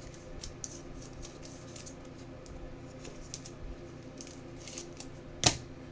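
Soft scattered ticks and taps of trading cards being handled and sorted, with one sharp click about five and a half seconds in, over a steady low room hum.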